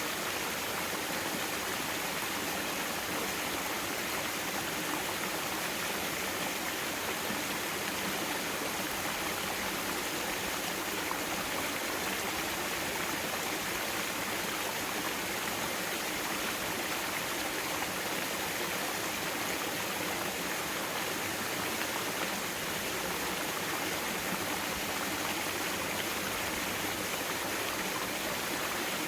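Mountain stream water flowing over rocks in a steady, even rush.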